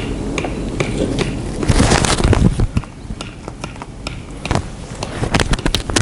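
Sharp cracks and crackling of wood being snapped and handled at a small wood-burning camp stove. There is a louder scraping rustle about two seconds in and a quick run of cracks near the end.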